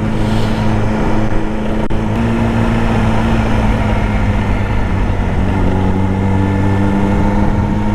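Sport bike engine running at a steady pitch, which steps up slightly about two seconds in.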